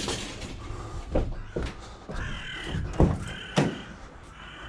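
A crow cawing a few times, with several sharp knocks in between.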